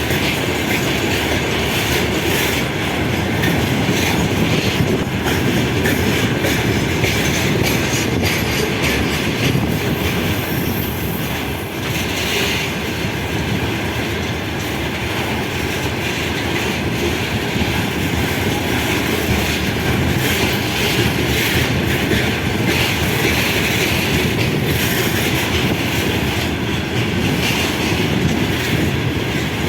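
A train passing steadily through the station, its wheels clacking over the rail joints in a continuous run of clicks.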